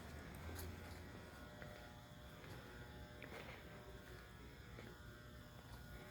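Near silence: faint room tone with a steady low hum and light buzz, a little stronger in the first second.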